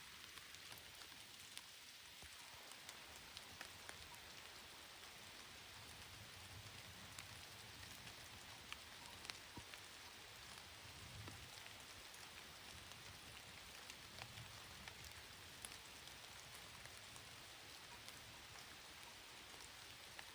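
Faint, steady rain, with individual drops ticking sharply now and then.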